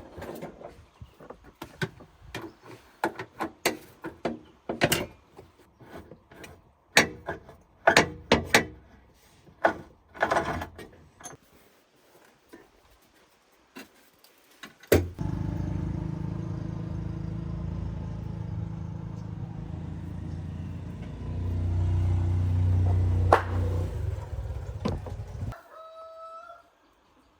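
A run of sharp knocks and clinks like tool work. Then a steady low machine sound runs for about ten seconds, grows louder partway through and cuts off suddenly. A rooster crows briefly near the end.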